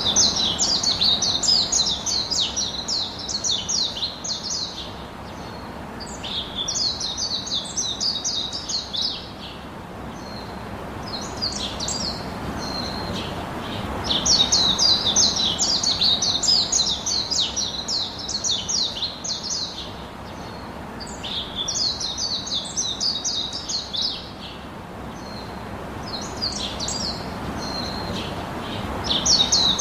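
A songbird singing: phrases of rapid high chirping notes lasting a few seconds each, repeated about every five to seven seconds with short pauses between.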